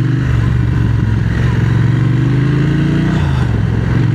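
Triumph Speed Twin 1200's parallel-twin engine running under way, its pitch rising gently, then dipping briefly a little after three seconds before it steadies again.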